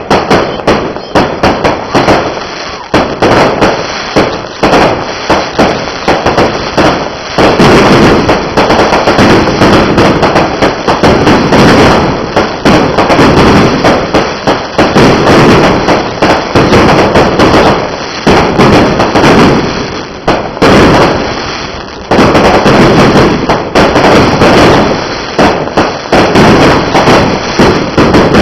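A firework display: a rapid, continuous barrage of loud aerial shell bursts and crackling bangs, many a second, packing densest in two stretches, with the clipped snap of close blasts.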